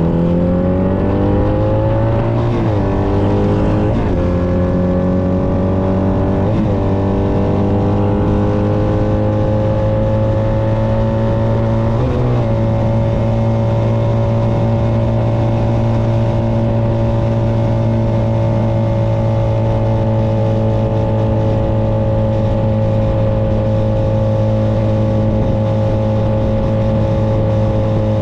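Honda Nighthawk 250's air-cooled parallel-twin engine under way: the engine note climbs for the first dozen seconds with a few brief dips, then holds a steady cruise and eases off slightly near the end, over a constant rush of wind and road noise.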